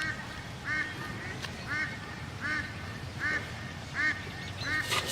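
An animal giving short, arched calls over and over, about seven of them, one every second or less, over a low steady rumble.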